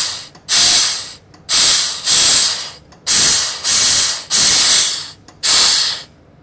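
Compressed-air blow gun fired in about seven short hissing blasts into an EVAP vent shut-off solenoid coated in soapy water, leak-testing the valve; the blasts stop shortly before the end. The bubbles this raises show the valve housing is broken and leaking.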